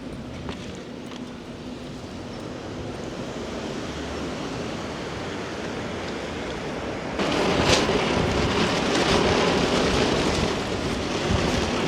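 Steady hiss of rain, which turns abruptly louder about seven seconds in and stays that way.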